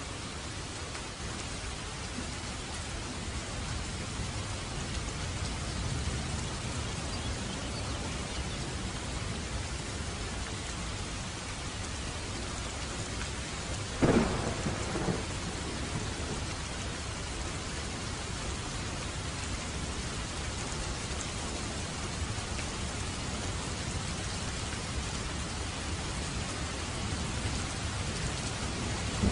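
Heavy rain pouring steadily. About halfway through comes a sudden loud crack of thunder that rings on for a second or two.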